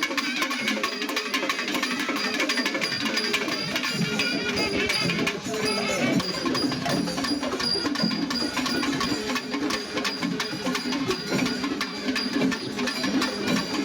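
Traditional temple festival percussion ensemble playing: fast, continuous drum strokes with ringing cymbals and pitched instruments over them.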